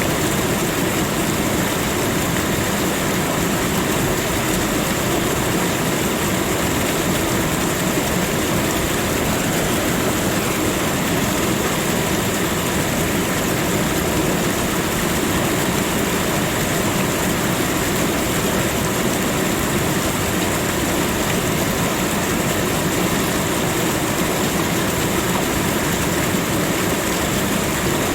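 Steady rushing of running water, an even noise that does not change.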